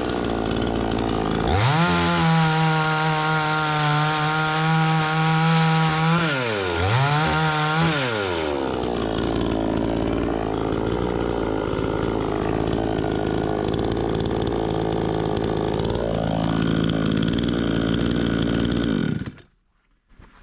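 Two-stroke chainsaw running at high revs, the pitch dipping and recovering twice. Then the pitch drops and wavers as the saw works under load in a cut, rises again, and the sound cuts off suddenly near the end.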